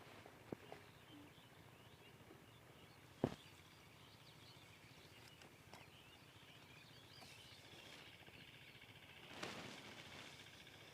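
Faint outdoor rural ambience with small bird chirps, a single sharp click about three seconds in and a brief noisy rustle near the end.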